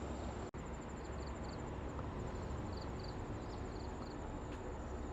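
Insects chirping in short repeated groups over a steady low rumble, with a brief cut-out of all sound about half a second in.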